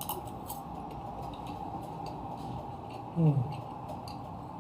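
Quiet sounds of someone tasting food: small scattered clicks over a steady background hum, and a short falling 'mm' about three seconds in.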